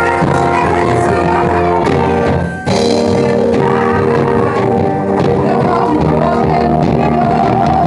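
Live church band playing loud amplified rock-style gospel music with guitar and drums, with a brief drop in level about two and a half seconds in.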